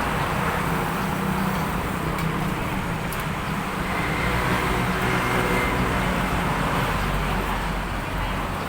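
Steady road-traffic noise, with a vehicle engine running close by.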